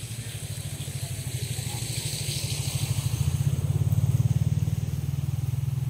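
Small engine running with a fast, even putter. It grows louder to a peak about four seconds in, then eases off as it passes close by.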